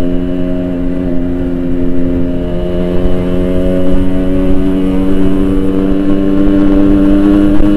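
Yamaha RX-King's single-cylinder two-stroke engine, fitted with a Boban aftermarket exhaust, running at a steady pitch while being ridden, growing slightly louder toward the end.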